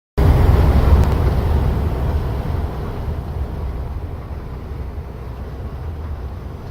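Low, steady rumble of a Scania truck on the motorway, heard as road and engine noise, slowly fading over the seconds.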